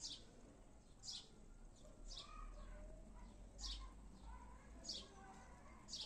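A bird calling: a short, high chirp that sweeps downward, repeated about once a second, with fainter, lower bird notes behind it.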